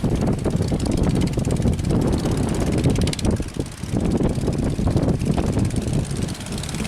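Fishing boat engines running steadily, with wind buffeting the microphone.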